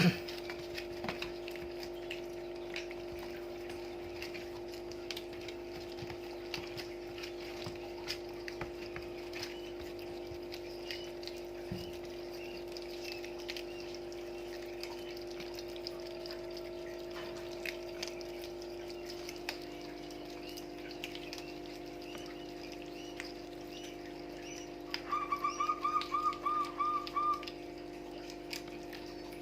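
Civets chewing and crunching a quail: scattered small crisp clicks over a steady low hum. Near the end there is a quick, louder run of about ten high chirps lasting a couple of seconds.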